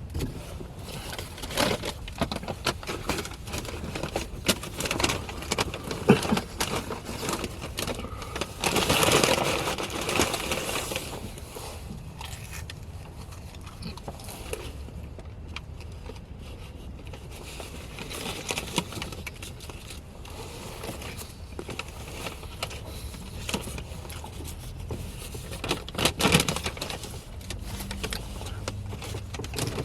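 Car cabin noise: a low steady road rumble with scattered clicks and rustles, and a louder rush of noise about nine seconds in.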